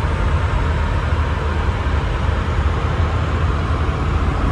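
Steady in-flight cabin noise of an Airbus A319 airliner: a constant low rumble with hiss from airflow and engines, unchanging throughout.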